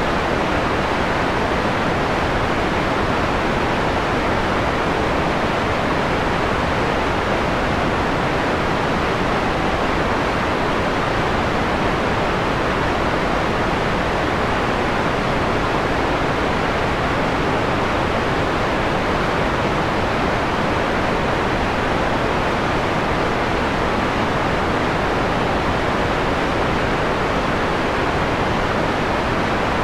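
Steady synthetic white noise, filtered so the top end is dulled: an even hiss that thins out above the upper midrange, giving a softer, mellower tone than plain white noise. It holds constant with no events or changes.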